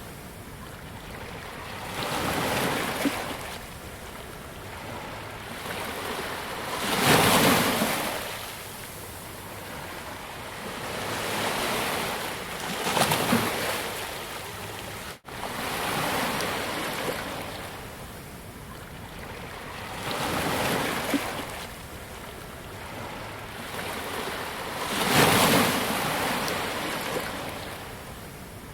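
Ocean waves breaking on a beach, one wave about every five to six seconds, each a swell of surf that rises and then washes back out. There is a momentary cut-out about halfway through.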